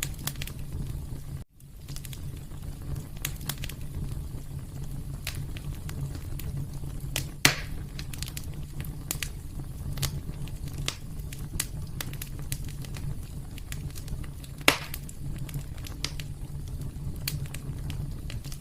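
Wood fire crackling in a fireplace: a steady low rumble of flames with frequent small crackles, and two louder pops, one about midway and one about three-quarters of the way through. The sound drops out for an instant about a second and a half in.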